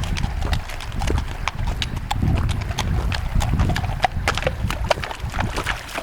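Horse's shod hooves clopping at a walk, a run of sharp, uneven clacks. Wind rumbles on the microphone throughout.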